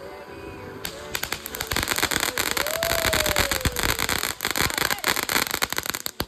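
Consumer firework fountain erupting in a short spurt: a sharp crack about a second in, then dense rapid crackling and popping with a brief whistle that rises and falls in the middle, stopping abruptly near the end.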